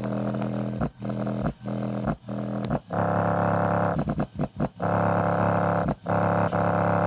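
A bare 6-inch Samsung subwoofer driver, unboxed in free air on a big amplifier, playing a bass line with a heavy buzzing distortion. The sound breaks off in short gaps about every half second. From about three seconds in it gets louder and harsher.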